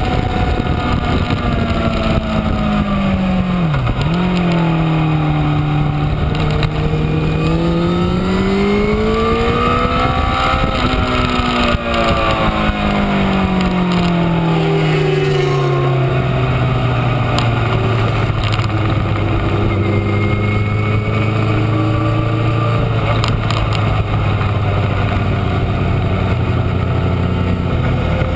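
2012 Honda CBR1000RR's inline-four engine running under way, with a constant rush of wind noise. The engine note drops sharply about four seconds in, climbs and falls again, then holds a steady low note for the last dozen seconds.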